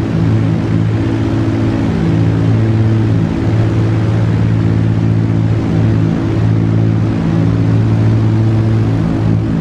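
Steady low drone of an airplane's engines, a hum held at one pitch over a loud rushing noise, dipping briefly now and then.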